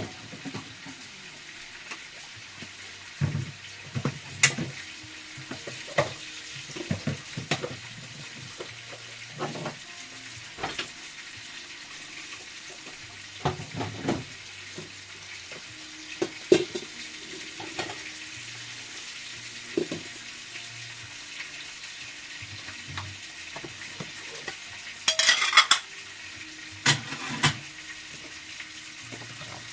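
Food frying in a pan with a steady sizzle, broken by frequent clinks and knocks of utensils and dishes, with a short burst of clattering near the end.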